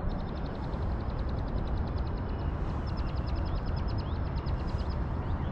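Wind buffeting the microphone as a steady rumble, with a bird's rapid trill of high, evenly spaced notes heard in two runs of about two seconds each.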